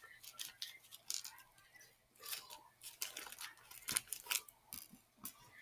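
Faint rustling and irregular small clicks from handling beads and their containers while adding them to slime.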